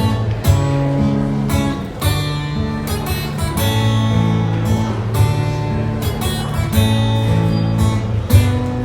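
Acoustic guitar strumming chords, an instrumental passage of the song with no singing.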